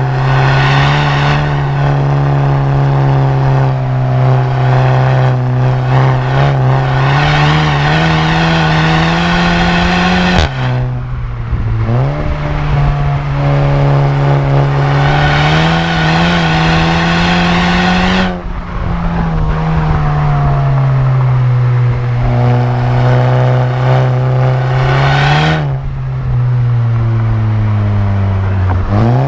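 Mk7 Volkswagen Golf GTI's turbocharged 2.0-litre four-cylinder running through a muffler-deleted exhaust under acceleration. The engine note climbs slowly in long pulls and is broken by three sudden drops in pitch before rising again.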